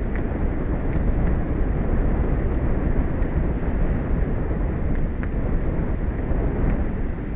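Steady low rumble of wind buffeting an outdoor microphone, with a few faint ticks.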